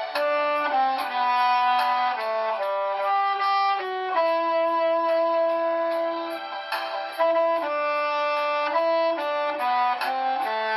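Tenor saxophone playing a slow melody with long held notes over a backing track with a steady hi-hat beat.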